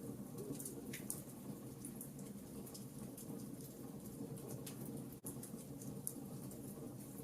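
Wood fire burning in a fireplace: scattered sharp crackles and pops over a steady low rush of flames, with a split-second dropout about five seconds in.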